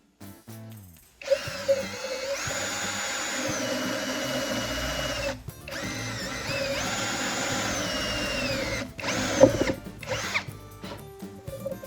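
Electric power tool motor run up to speed, held with a steady whine, then let wind down, twice in a row, followed by a few short bursts.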